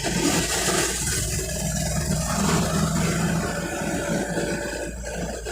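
Vehicle engine running in slow traffic: a steady low engine hum over constant road and traffic noise.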